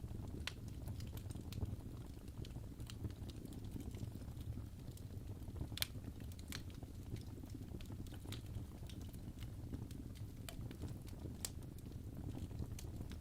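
Wood fire crackling in a fireplace: a steady low rumble of flames with scattered sharp pops and snaps, two of them louder, about halfway through and again later.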